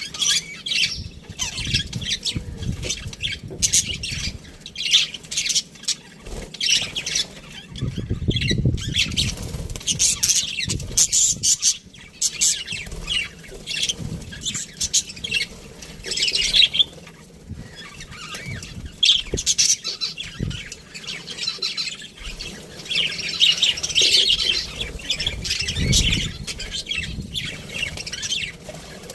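A flock of budgerigars chattering and chirping without a break, many birds calling over one another. A couple of low, muffled flutters stand out about a third of the way in and again near the end.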